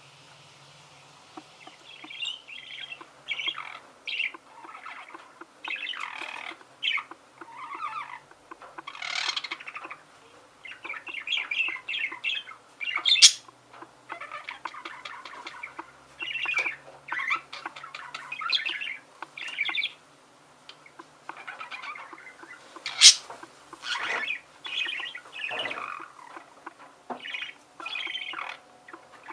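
Budgerigars warbling and chattering in short bursts of rapid chirps. Two sharp clicks stand out above the birds, one near the middle and one later on.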